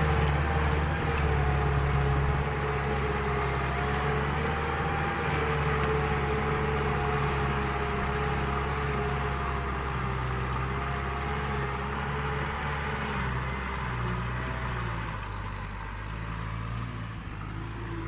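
Large farm tractor's diesel engine running steadily under load while ploughing, with a steady whine above the engine note. It grows gradually quieter over the last few seconds.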